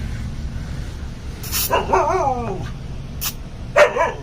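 A puppy yapping and whining in a high, young voice: a yap about a second and a half in that runs into a drawn-out wavering whine, then another short yap near the end.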